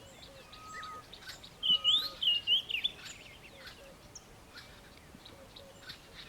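Red-backed scrub robin singing one quick, warbled phrase of rising and falling whistles about one and a half seconds in. Other birds chirp faintly in the background.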